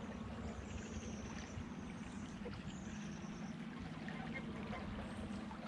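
Steady rush of fast-flowing river water, with three faint, thin, high chirps in the first few seconds.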